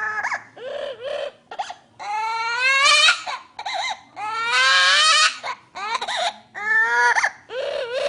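A parrot mimicking a baby crying: a string of sobbing wails with short breaks between them, including long rising wails about two seconds in and a louder one around the middle.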